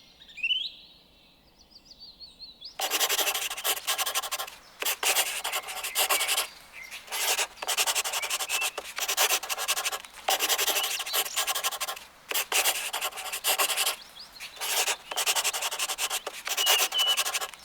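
Drawing or colouring tool scratching across paper in repeated strokes, in runs of a second or two with short pauses between.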